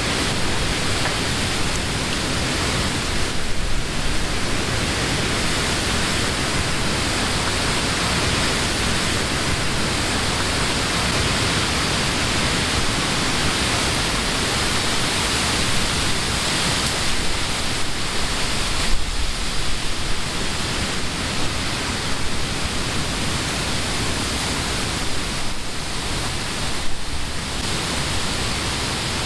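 Summer wind blowing through leafy trees: a steady, full rush of rustling leaves, swelling briefly a few times.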